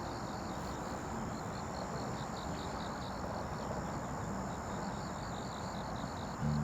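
An insect chirping in a steady rhythm, about three to four short high chirps a second, with a thin steady high whine, over a low even rushing background.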